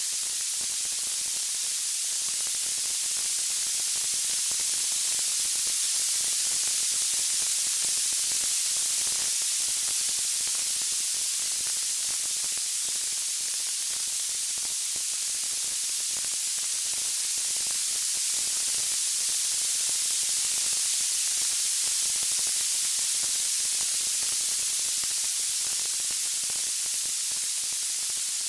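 Steady, high-pitched white-noise hiss with no distinct crackles or tones, slowly swelling and easing in level.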